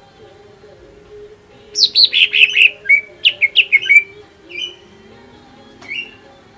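Greater green leafbird (cucak ijo) singing: after a short pause, a loud, fast run of sharp falling notes lasting about two seconds, then two short whistled notes near the end.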